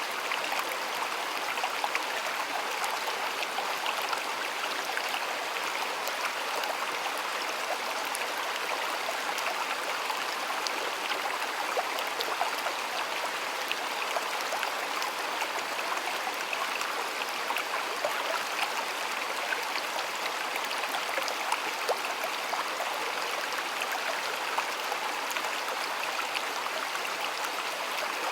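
Stream water flowing steadily over stones, a continuous rushing with many small splashes and gurgles.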